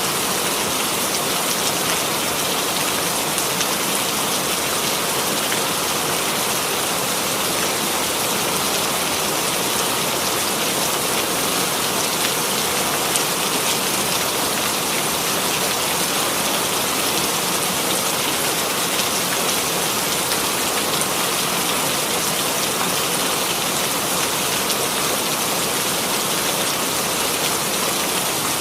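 Steady rain with a dense patter of drops on a surface.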